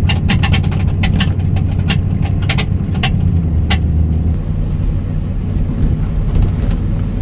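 2001 Ford F250 truck driving on the road: a steady low engine and road rumble, with a run of sharp clicks or rattles in the first few seconds. This is a test drive after welding the rear door seam, listening for the door's screech, which is not heard.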